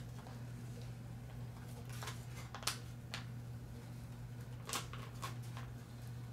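A few short crinkles and taps, irregularly spaced, from hands working a self-adhesive insignia and its paper backing onto a model aircraft, over a steady low hum.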